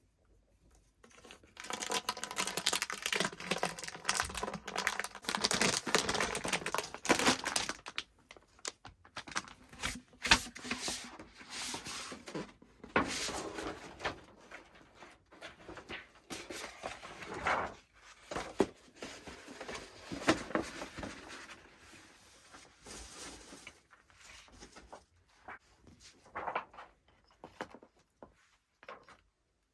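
Irregular rustling and crinkling, like dry material being handled, dense for the first several seconds and then sparser and quieter, with scattered sharper crackles.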